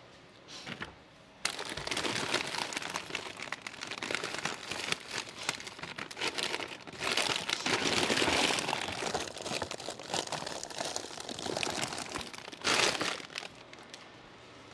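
Packaging being crinkled and rustled while handled, a dense crackle that starts about a second and a half in, is heaviest in the middle, and stops after a last short burst near the end.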